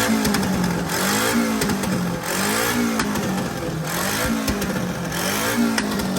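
Car engine revved repeatedly in a rev battle, its pitch climbing and dropping in blips about every second and a half.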